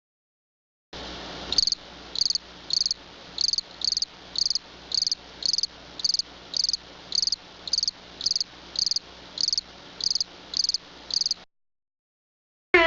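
Cricket chirping in short evenly spaced pulses, almost two a second, over a faint steady background hum. It starts about a second in and cuts off suddenly near the end.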